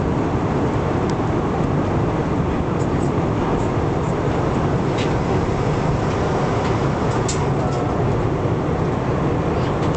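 Steady drone of an airliner's engines and airflow heard inside the passenger cabin, with a few faint clicks.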